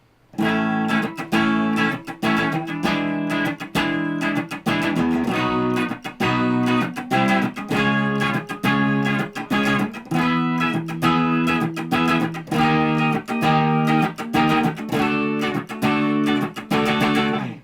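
Gibson Les Paul Custom with 498/490 humbuckers strumming full chords hard, one chord after another and moving up the neck, played through a Mooer GE300 into a miked EVH 5150 III amp and 2x12 cabinet. The guitar is being played so the GE300's Tone Capture can learn it as the source guitar. The playing stops suddenly near the end.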